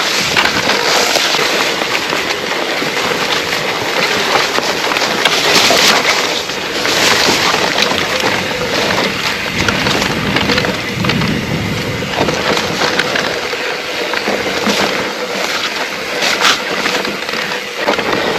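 Electric mountain bike pushing through dense bracken on a rough trail: fronds swishing and crackling against the bike and the camera, with tyre and trail noise, loud and continuous, over a faint steady whine.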